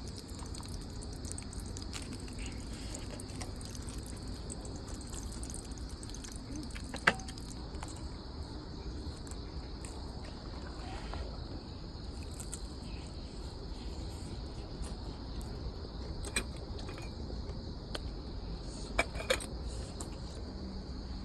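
Crickets chirping in a steady high drone, with a few sharp clicks: one about a third of the way in and three near the end.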